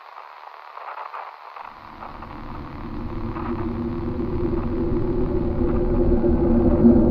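Faint radio-like static hiss, then about two seconds in a low rumbling drone with a few steady tones fades in and swells steadily louder: an analog-horror sound effect building up.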